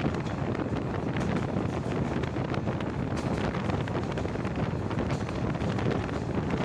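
Passenger train running on the rails, heard at the carriage window: wind rushing over the microphone on top of a steady rumble from the wheels, with frequent short rattles and clicks.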